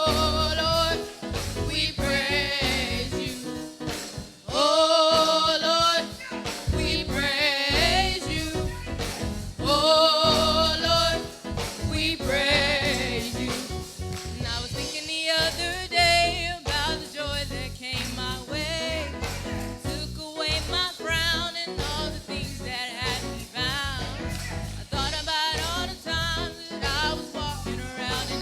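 Live gospel singing: voices holding long, wavering notes over instrumental accompaniment.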